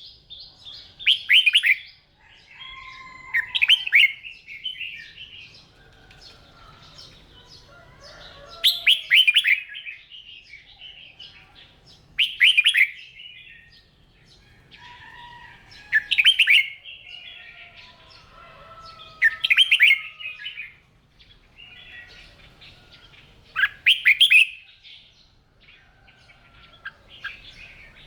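Red-whiskered bulbuls singing: loud, short, quick warbled phrases about every three to four seconds, with softer chirps between them.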